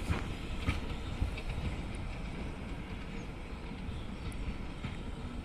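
Railway train running on the line: a steady low rumble, with a few sharp knocks in the first second or so.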